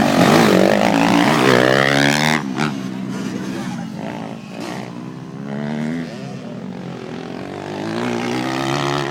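Motocross dirt bike engine revving hard. The pitch climbs and drops off about two seconds in, then rises again a couple more times, less loudly.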